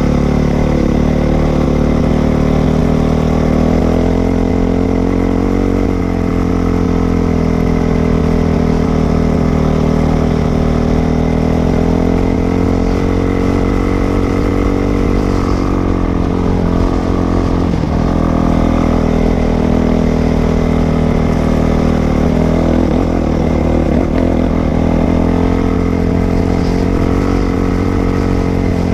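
Dirt bike engine running steadily, its pitch shifting only slightly up and down.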